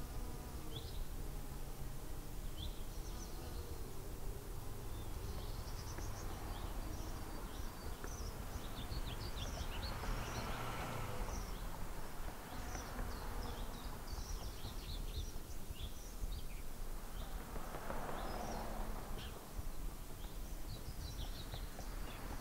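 Outdoor ambience of small birds chirping over a steady low rumble, which swells twice, about ten and eighteen seconds in.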